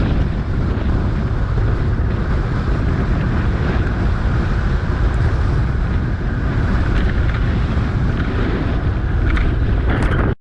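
Wind rushing steadily over the camera's microphone while riding a bicycle, a loud, heavy rumble with no speech.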